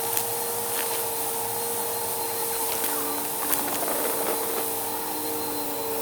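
Vacuum cleaner with a spinning brushroll running steadily, its motor holding an even pitch, with a few sharp ticks of debris being sucked up.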